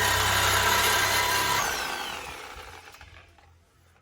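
Power tool cutting through the steel exhaust pipe to take off a rusted-out muffler. The tool is switched off about one and a half seconds in, and its whine falls as it spins down and fades.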